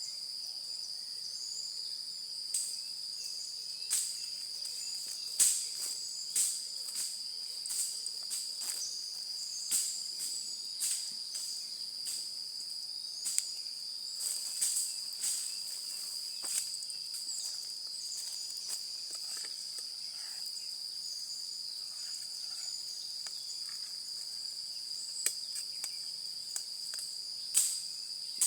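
Crickets chirring in a steady, unbroken high drone, with irregular sharp pops and crackles from a wood campfire scattered over it.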